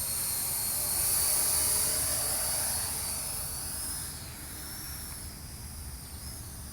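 Parrot AR.Drone 2.0 quadcopter's four electric motors and propellers whining in flight, the pitch shifting as it manoeuvres. It grows fainter after about four seconds.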